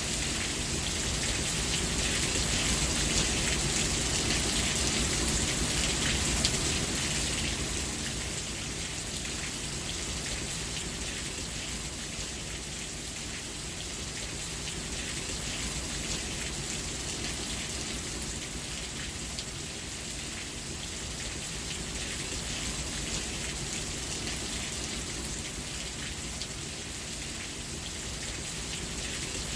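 Steady rain falling: a dense hiss of drops with fine scattered patters. It is a little louder for the first several seconds, then eases slightly.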